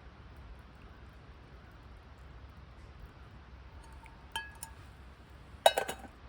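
Camp cookware clinking: one ringing clink about four seconds in, then a quick cluster of louder clinks near the end.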